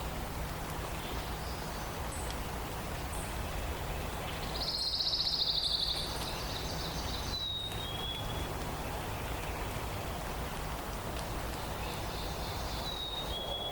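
Forest songbirds over a steady hiss: one bird gives a loud, fast trill of about a second and a half, about four seconds in. Later a clear two-note whistle, the second note lower, comes twice.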